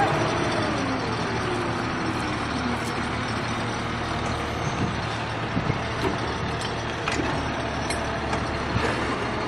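A heavy vehicle's engine running under steady noise, its pitch falling over the first two or three seconds.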